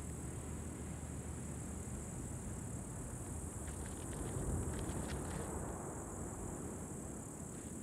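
Steady, high-pitched chirring of insects, over a low rumble, with a few faint ticks around the middle.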